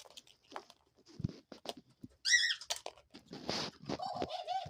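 Pet dove pecking and tapping at a small object, a few scattered sharp taps, then a short high squeak about halfway through. A brief rustle follows, and near the end comes a steady, wavering call.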